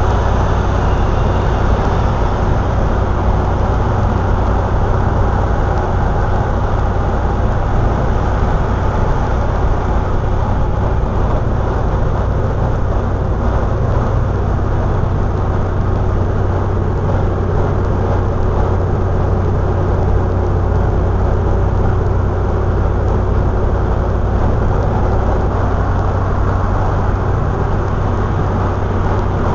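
Triumph Spitfire 1500's four-cylinder engine cruising steadily at motorway speed, heard from inside the car as a constant low drone over steady road and wind rush.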